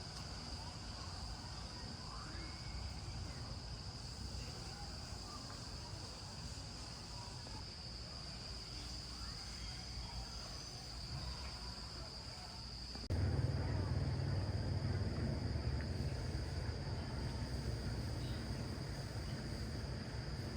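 Steady high-pitched chirring of insects. About two-thirds of the way through, a low rumble comes in suddenly under it.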